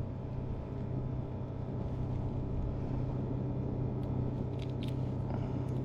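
Steady low engine drone, an even hum that holds one pitch throughout, with a few faint ticks about four to five seconds in.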